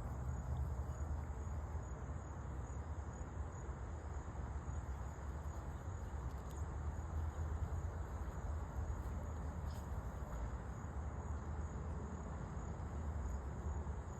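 Insects, likely crickets, trilling in a steady, high, slightly pulsing tone over a low, continuous background rumble.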